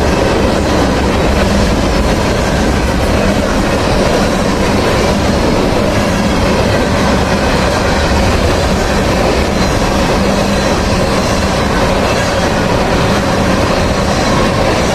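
Freight train of tank cars rolling past close by: a loud, steady noise of steel wheels running on the rails.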